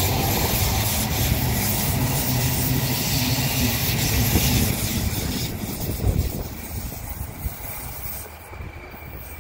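A train running, a steady noisy rumble that dies away over the second half.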